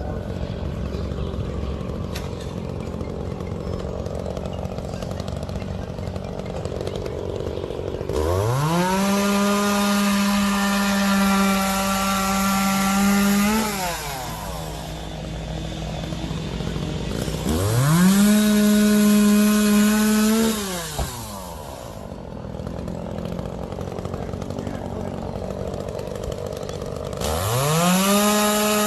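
Two-stroke chainsaw idling, then revved to full throttle three times, each a few seconds long with a quick rise and fall in pitch, while cutting up fallen tree limbs.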